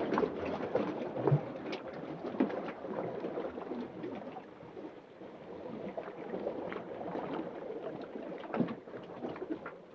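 Underwater ocean ambience: muffled water movement with many small scattered pops and clicks, loudest at the start and easing off.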